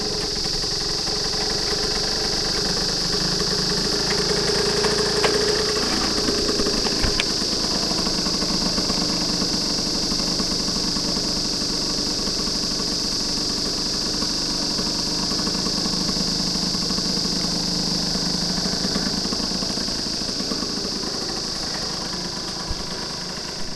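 Suzuki Wolf 125's two-stroke single-cylinder engine idling steadily, its exhaust running evenly and growing slightly quieter near the end, with a steady high-pitched hiss above it.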